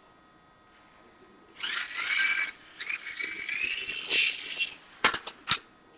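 Small electric motor of a toy RC helicopter whining in two high-pitched spells, its pitch shifting and rising a little as it spins up, followed by a few sharp clicks about five seconds in as the helicopter knocks into things in a crash.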